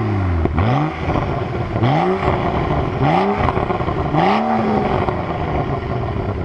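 BMW 640i's turbocharged 3.0-litre inline-six exhaust, revved in four quick blips about a second apart, each climbing and dropping straight back, then settling to idle.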